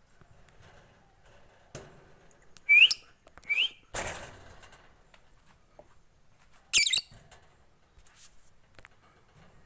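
Lovebird calling in short, shrill bursts: two quick rising squeaks under a second apart, then a brief noisy burst, and about three seconds later one louder, wavering shriek.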